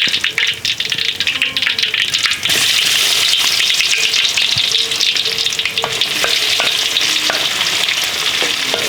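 Food sizzling and frying in a hot pan, a dense crackling hiss that grows louder and steadier about two and a half seconds in, with scattered sharp clicks.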